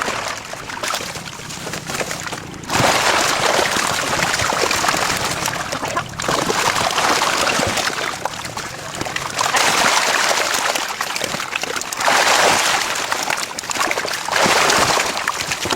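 Water splashing and sloshing in about five surges of a few seconds each.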